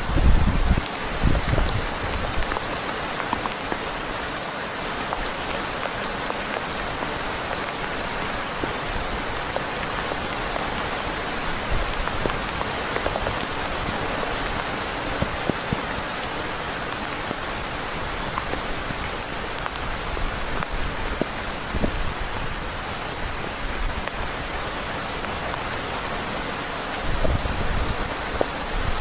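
Heavy rain falling steadily, a dense hiss with scattered drops ticking, and a few low rumbles near the start and again near the end.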